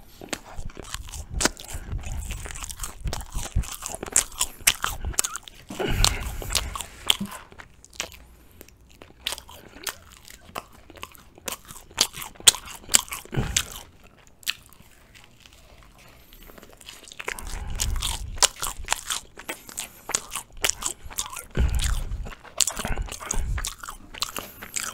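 Close-miked biting and chewing of Turkish Ramazan pide flatbread spread with ajvar: soft crunches and many small mouth clicks, with a quieter lull a little past halfway.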